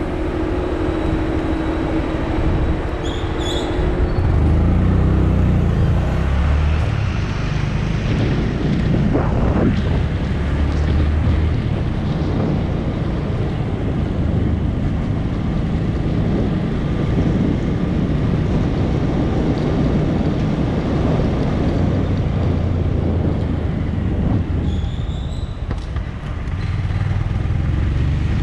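Honda MSX 125's single-cylinder four-stroke engine running under way in city traffic, its pitch rising and falling with the throttle, over wind and road noise. Two short high-pitched sounds come about three seconds in and near the end.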